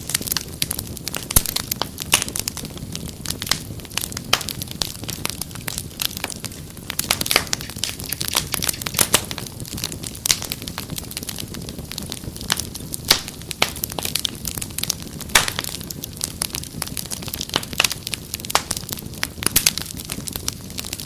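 Wood fire crackling: frequent sharp, irregular pops and snaps over a low, steady hiss and rumble of burning logs.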